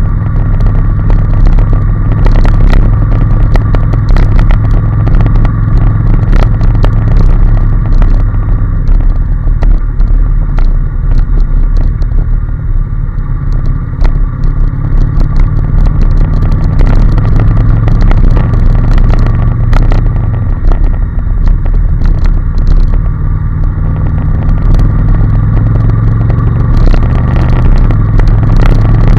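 Honda NC750S parallel-twin engine running at a steady road speed, over a heavy low rumble of wind and road noise with scattered crackles. The engine eases off slightly around the middle, then picks up again.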